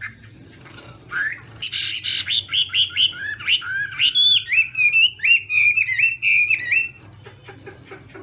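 Chinese hwamei singing: a loud run of clear whistled notes, starting about a second in with a sharp burst, then a string of repeated slurred, pitch-bending notes, stopping about a second before the end.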